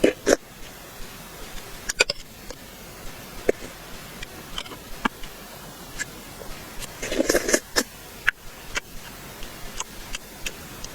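Close-miked eating sounds: scattered short clicks and smacks of chewing and mouth noises, with a denser, louder run of them about seven seconds in.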